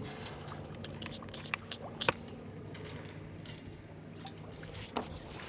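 Water lapping and trickling against the hull of a small sailboat under way in light wind, with a few sharp clicks and knocks over a low steady hum.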